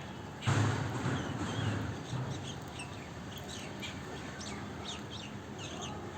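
A sudden rush of noise with a low rumble about half a second in, fading over a second or so, followed by small birds chirping, many short high chirps several times a second.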